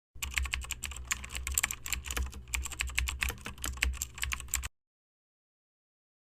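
Computer keyboard typing: rapid, irregular key clicks over a low hum, cutting off abruptly about four and a half seconds in.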